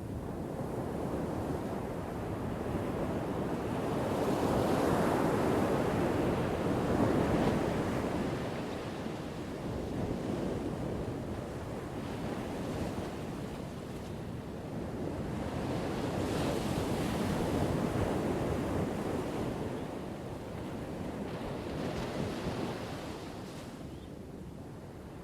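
Ocean waves breaking on a shore, the surf swelling and falling back in slow surges about every ten seconds, with some wind noise on the microphone.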